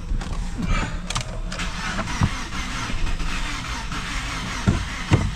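2016 Toyota Tacoma's 2.7-litre four-cylinder engine running steadily, with a couple of sharp knocks near the end.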